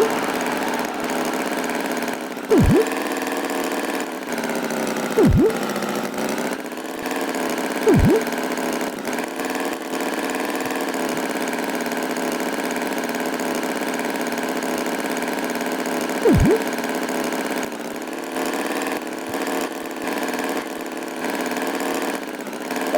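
Tractor engine running steadily with a low, even hum. About five times, a few seconds apart, a short sound drops sharply in pitch.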